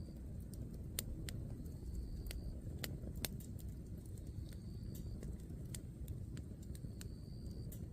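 Firewood burning in a campfire: sharp crackles and pops at irregular intervals over a low, steady rumble.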